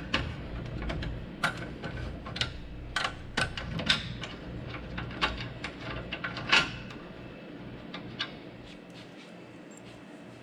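Irregular sharp metal clicks and knocks, a few a second, from hands and tools working at the saw's bolted mounting on its stand. They thin out after about seven seconds.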